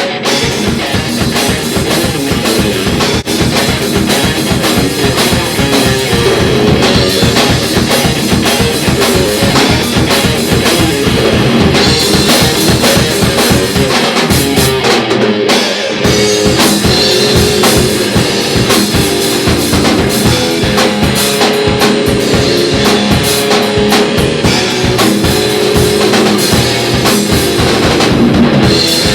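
A rock band playing an instrumental number live, with drum kit and electric guitar.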